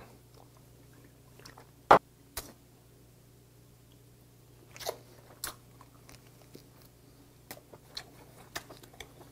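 Close-up mouth sounds of eating snow crab leg meat: chewing with scattered sharp wet clicks and smacks, the loudest about two seconds in.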